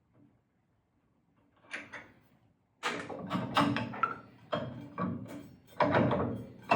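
Irregular metal clanks and scraping from table saw arbor parts being handled while the blade is taken off: a faint knock about two seconds in, then a busy run of clanks.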